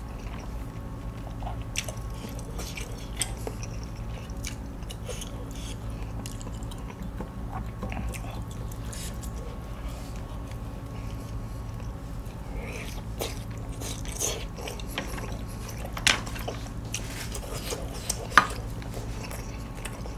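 Close-miked chewing and eating of grilled beef, with scattered small clicks. Two sharper, louder clicks come near the end. A steady low hum runs underneath.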